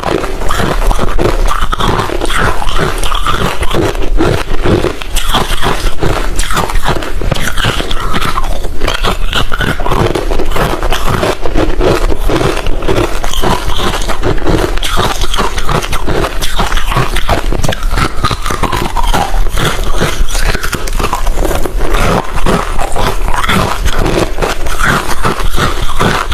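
Close-miked chewing of hard refrozen crushed ice: a continuous run of loud, rapid crunches as the ice is bitten and ground between the teeth.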